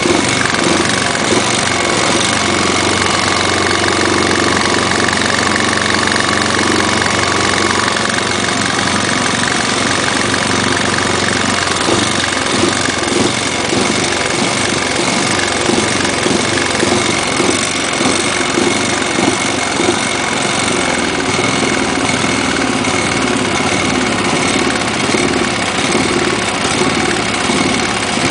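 Robin EY15D air-cooled single-cylinder four-stroke engine from a rammer, running steadily at low speed. Its carburettor's slow-speed circuit runs lean, which the owner says makes it hunt at low speed.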